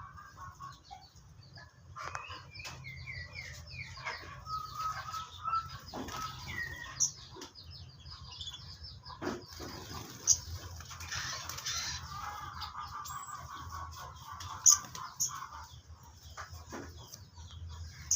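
Birds chirping and calling, in rapid runs of short repeated notes, with scattered sharp clicks.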